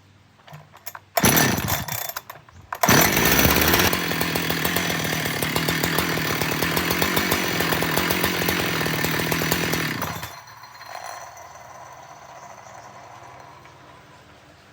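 Two-stroke chainsaw engine being started during its repair: a short burst about a second in, then it catches near three seconds, revs up and runs steadily at high speed before dropping away sharply at about ten seconds.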